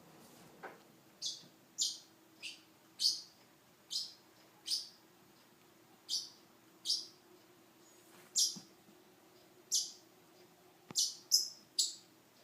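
Pet parrot chirping: short, high chirps repeated at irregular intervals, about one a second, some coming in quick pairs near the end.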